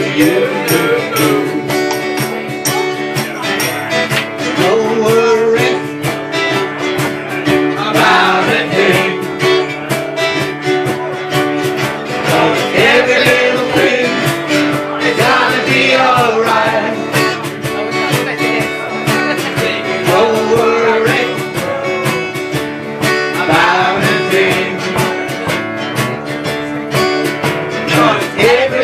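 Live performance of a reggae song: a man singing over strummed guitar, with his vocal lines returning every few seconds.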